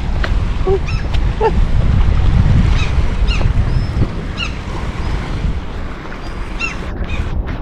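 Wind buffeting the microphone with a strong low rumble, while birds give repeated short, high calls over it.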